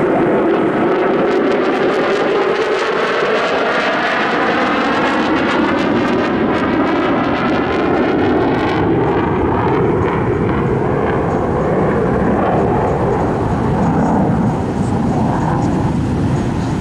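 Loud engine noise of an aircraft flying low past the crowd; the pitch of the noise sweeps up and then down as it goes by, then the noise eases slightly near the end.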